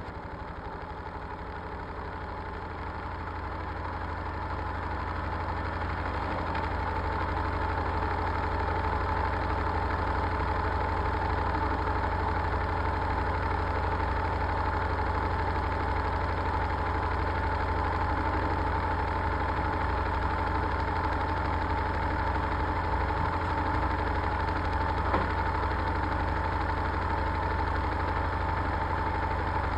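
Washing machine spinning, its motor and drum running with a steady whine over a low hum; it grows louder over the first several seconds, then holds steady.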